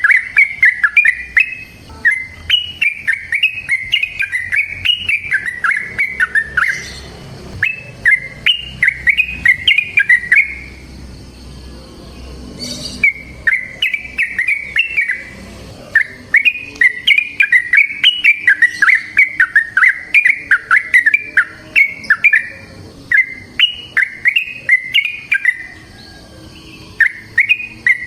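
Yellow-vented bulbul (trucukan) singing long runs of fast, bubbling chirped notes, each phrase lasting a few seconds, with brief pauses between phrases.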